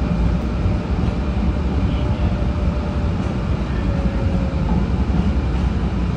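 Type 8 Breda light-rail trolley running between stations, heard from inside the car: a steady low rumble of wheels on rails with a faint thin tone above it.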